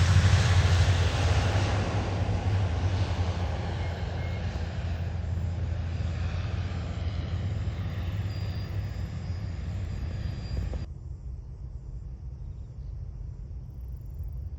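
Airliner's engines passing, loud at first and fading steadily as it moves away. About three-quarters of the way through the higher part of the noise cuts off suddenly, leaving a low rumble.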